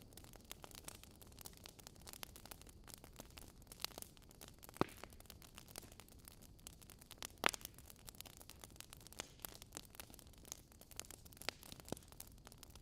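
Wood logs burning in a fireplace, crackling with many small irregular pops over a faint hiss, and two louder pops, one about a third of the way in and one just past halfway.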